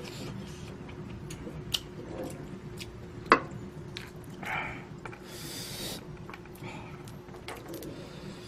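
Close-miked eating: quiet chewing with sharp clicks of a utensil against a bowl, the loudest about three seconds in, and a short hissing rush of air a little past halfway. A steady low hum lies underneath.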